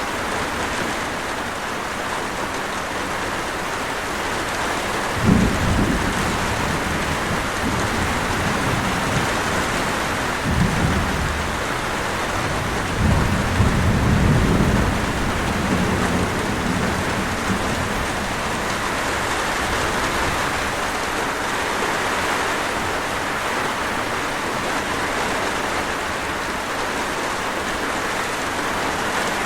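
Steady heavy rain falling, with thunder: a sharp crack about five seconds in, then long rolling rumbles through the middle before only the rain remains.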